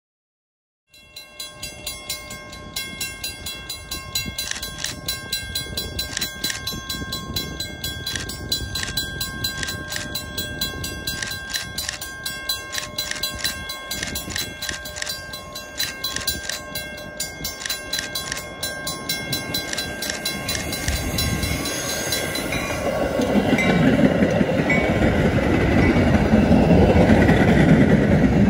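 A fast, steady ringing, like grade-crossing bells, is heard first. In the last third a Metra double-deck commuter train rolls past on the near track, its rumble of wheels on rail growing loud and covering the ringing.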